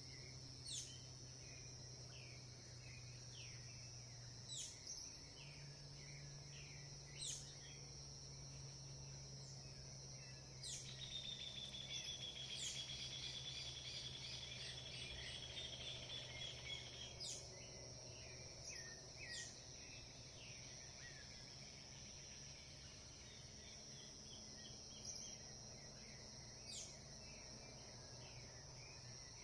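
Wild birds giving short, sharp chirps every few seconds over a steady high insect chorus, with one bird singing a longer trill for several seconds about a third of the way in.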